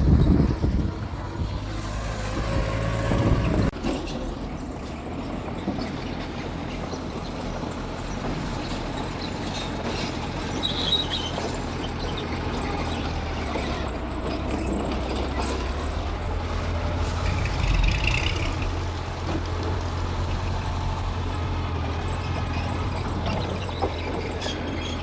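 Mitsubishi bulldozer's diesel engine running steadily with a low hum, loudest in the first second.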